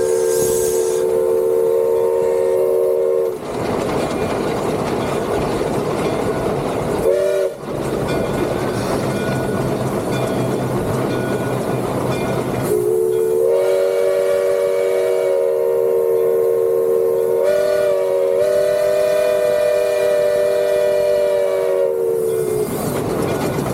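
Steam whistle of the three-truck Shay locomotive J. Neils Lumber #5 blowing a chime of several tones: a long blast that ends about three seconds in, a short toot about seven seconds in, then another long blast from about 13 to 22 seconds. Between the blasts the locomotive's steady running noise fills in.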